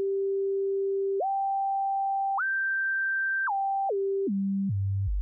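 A pure sine-wave tone from a Sylenth1 software synthesizer oscillator holds one note while its octave setting is stepped. It jumps up an octave about a second in and another a second later. Then it steps back down octave by octave, more quickly, to a deep bass note near the end.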